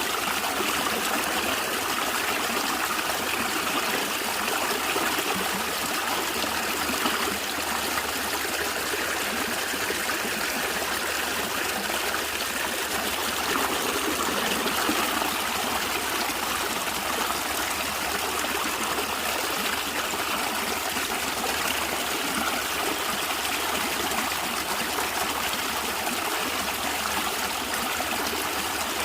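A stream of natural water flowing and gurgling, a steady, even rush with no let-up.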